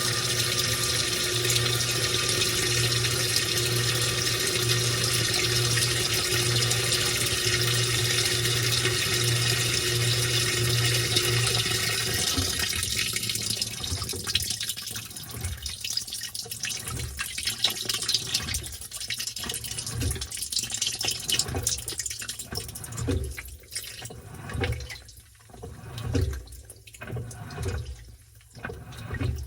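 Washing machine loaded with towels: water rushes steadily with a motor hum for the first twelve seconds or so. Then it gives way to uneven surges of water sloshing about once a second as the drum turns.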